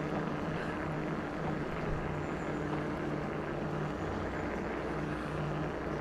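Steady running noise of an e-bike in motion, with a low, even hum throughout.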